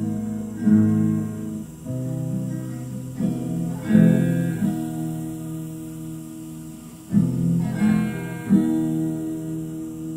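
Acoustic guitar strumming chords, the strums ringing out, with the chord changing every second or two.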